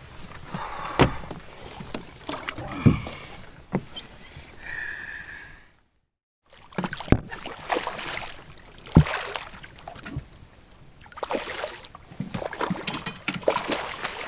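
Scattered knocks and bumps on a small fishing boat, with handling noise, while a snook is released back over the side. A short steady tone sounds just before the sound cuts to silence about six seconds in, and the knocks and handling noise resume after the gap.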